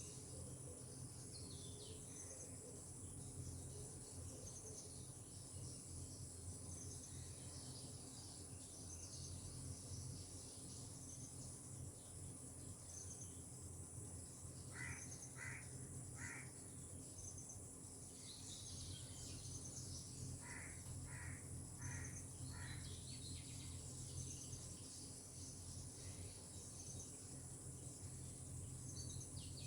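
Faint tropical outdoor ambience: a steady high insect chorus with small bird chirps throughout. In the middle a bird gives a series of three short calls and then, a few seconds later, four more.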